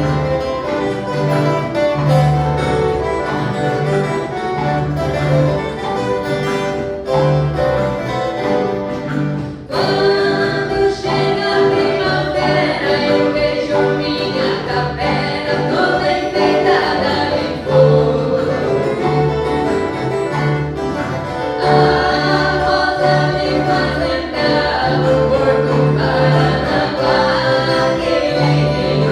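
Viola caipira orchestra playing a Christmas song, with a group of voices singing together coming in about ten seconds in.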